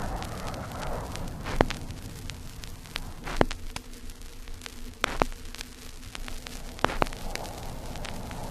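Vinyl LP playback of a USAF ordnance recording: the low rumble of a blast dies away, leaving record surface hiss with scattered sharp pops and clicks, about one every second or two, before another roar starts to build near the end.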